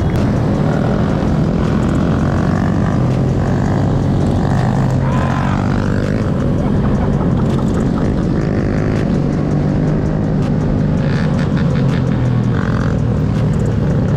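Mini bike engines running steadily, their pitch stepping up and down now and then as they are throttled.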